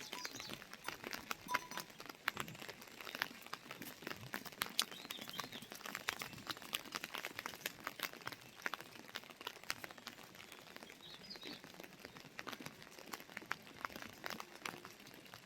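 Raindrops pattering in dense, irregular ticks, with a few short bird chirps about five seconds in and again near eleven seconds.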